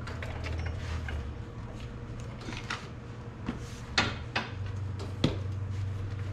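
Scattered metal clanks and knocks from tools and parts being handled during suspension work, with two sharper knocks about four and five seconds in, over a steady low hum.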